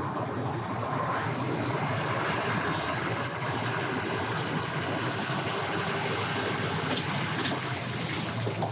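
Tow vehicle's engine running steadily as it pulls a boat on its trailer out of the water, under a constant background rush.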